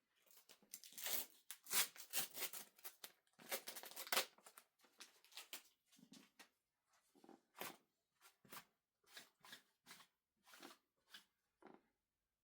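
Clothes rustling and swishing as laundry is handled and folded, quietly: a busy run of rustling for the first four seconds or so, then separate swishes about once a second.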